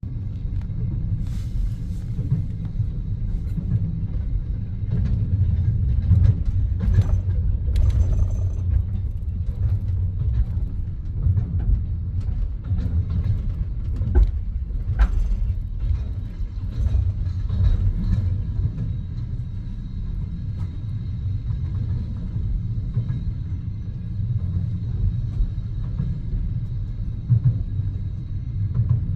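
Steady low rumble of a moving passenger train heard from inside the carriage, with a few scattered knocks and clicks.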